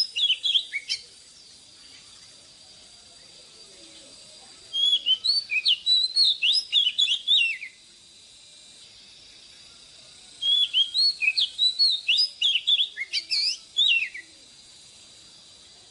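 Oriental magpie-robin singing in three bouts of quick, varied whistled notes, each bout a few seconds long and separated by short pauses.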